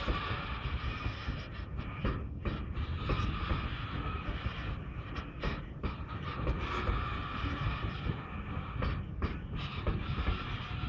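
A freight train's covered hopper cars rolling past close by: a steady rumbling of steel wheels on the rails.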